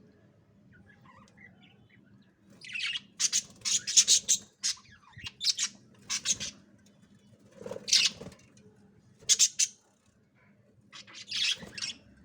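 Budgerigar chicks in a nest pot giving short, high, scratchy chirps in repeated bursts, with pauses of a second or two between them.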